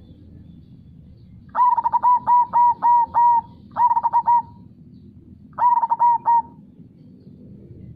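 Zebra dove (perkutut) cooing in three phrases of quick repeated notes: a long run of about seven notes, then two shorter bursts. The coos sit over a low steady background rush.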